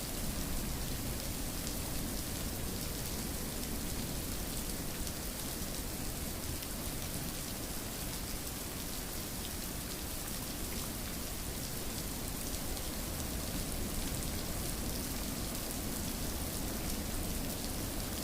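Steady rain falling: an even hiss of many drops, with a low rumble underneath.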